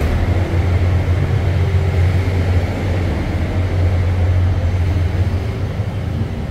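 Steady low rumble of a passenger train, heard from the gangway and vestibule between carriages.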